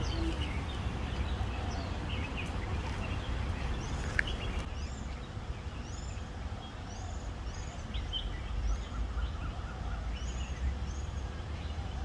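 Bird chirping: short, high, arched notes repeated about once a second, starting about a third of the way in, over a steady low rumble of background noise.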